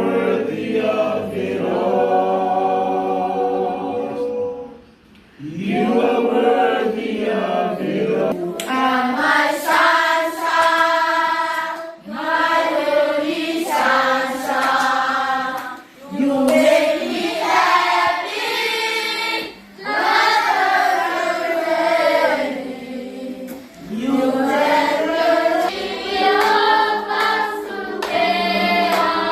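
A choir singing in full voice, in phrases of about four seconds, each followed by a brief pause for breath.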